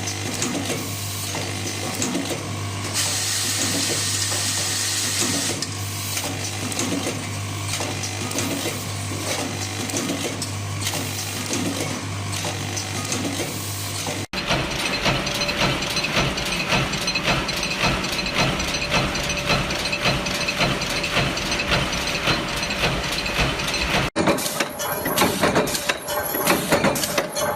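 Factory machinery running, with dense rapid mechanical clicking and clatter over a steady low hum. The sound changes abruptly twice, about halfway through and near the end.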